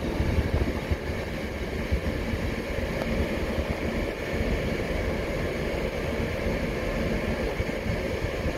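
Steady rumbling noise from a departing regional passenger train drawing away along the track, mixed with wind buffeting the microphone.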